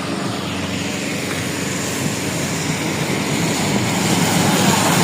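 Yamaha FZS V2 motorcycle's single-cylinder engine running while riding, mixed with a steady rush of wind and road noise, growing slightly louder over the few seconds.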